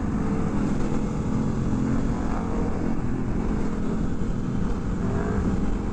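Motorcycle engines running, a steady low drone with no break.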